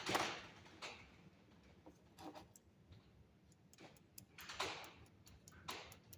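Scattered small clicks and brief rustling clatter of hand tools and wire being handled on a workbench, irregular and faint.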